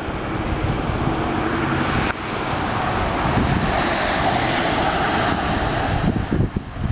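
Wind buffeting the microphone, a rushing noise that swells in the middle and breaks into uneven low rumbles near the end.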